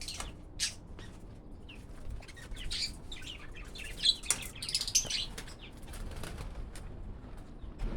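Small pet parrots chirping rapidly in short high calls, with bursts of wing flapping.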